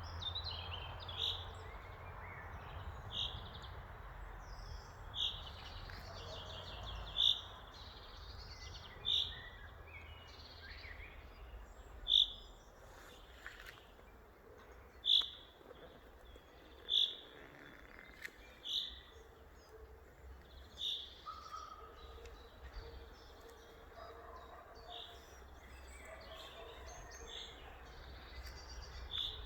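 Forest birds chirping, one bird repeating a short high call about every two seconds with softer chirps from others between, over a steady low background rumble.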